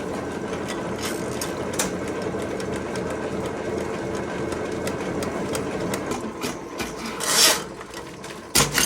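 Motorised sewer drain-cleaning machine running, its snake cable whirring and rattling as it is pulled back out of the line after catching tree roots. A louder rushing noise comes about seven seconds in, and a sharp knock near the end.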